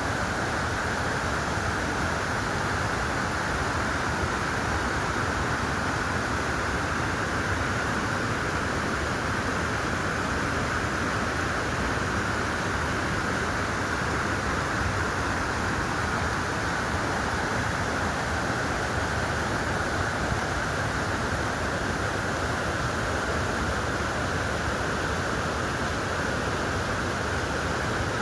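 Steady rushing of a mountain valley stream, an even noise that never changes.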